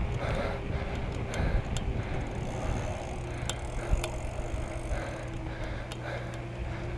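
Riding a bicycle: steady rumble of wind and road noise on the microphone, with a low steady hum and a few sharp clicks and rattles from the bike.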